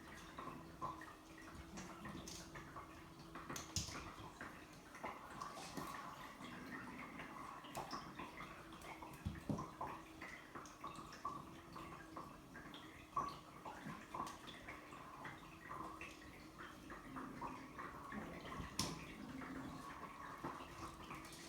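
Siberian kittens at play: faint, irregular taps, clicks and rustles of paws and a toy, a few sharper clicks among them, over a steady low hum.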